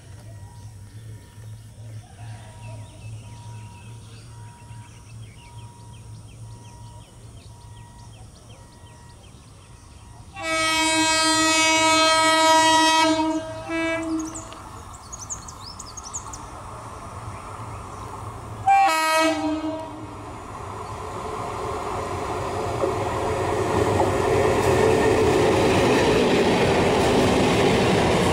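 ICF electric multiple unit (EMU) local train sounding its horn in one long multi-tone blast about ten seconds in, and a short blast a few seconds later. It then runs past with a growing rumble and wheel clatter that stays loud to the end.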